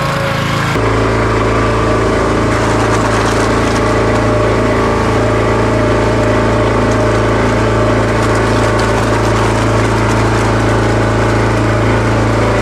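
Engine running at a steady speed, its note stepping up and getting louder about a second in, then holding constant.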